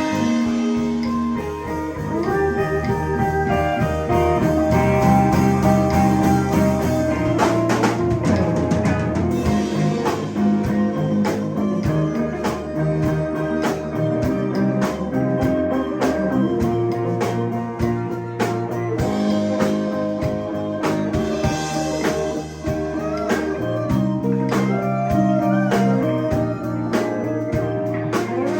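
Live band playing a blues jam: electric guitar with bending lead lines over bass and drum kit.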